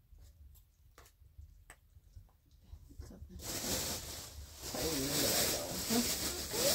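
A few faint clicks of a spoon against a metal bowl, then, about three seconds in, a clear plastic bag crinkling and rustling loudly as it is opened and handled.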